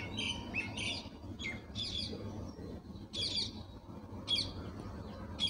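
Birds chirping in short, high calls, about one a second, some in quick pairs. Beneath them is a faint, steady run of tap water filling a plastic bottle.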